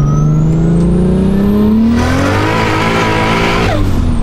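Single-turbo Toyota Supra MkIV 2JZ-GTE engine pulling hard through a gear, heard from inside the cabin. The engine note climbs steadily with a rising turbo whistle and a growing hiss of boost, then the revs drop sharply near the end as the throttle comes off. The freshly swapped replacement engine is running healthy.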